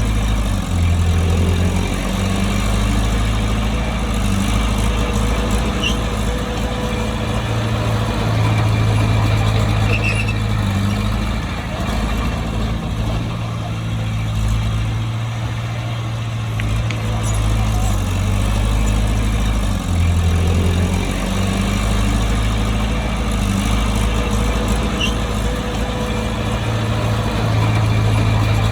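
Bulldozer's heavy diesel engine running continuously with a low, steady drone that shifts in pitch and strength from time to time as the load changes.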